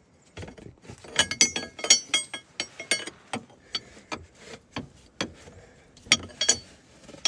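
Metal wrench clicking and clinking against a hydraulic hose fitting as it is tightened. Irregular sharp metallic clicks, some in quick runs, with a brief ring after several of them.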